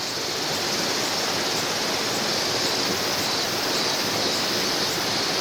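Water of a clear river flowing steadily, an even rushing hiss.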